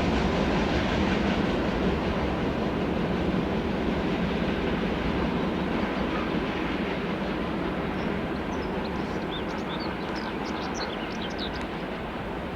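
Freight train wagons rolling past on the rails with a steady rumble and clatter that slowly fades. Short high squeaks come in over the last few seconds.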